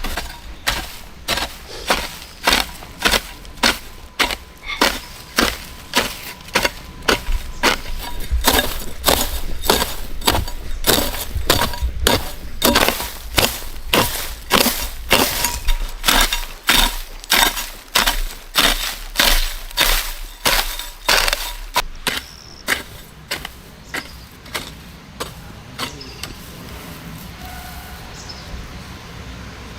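Repeated sharp strikes of a hand tool, about two blows a second in a steady rhythm, stopping about 22 seconds in.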